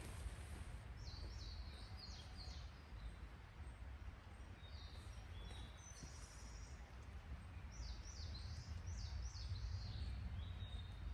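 Small birds calling: series of short, high, downward-slurred chirps, one run near the start, a few notes in the middle and another run in the second half, over a steady low rumble.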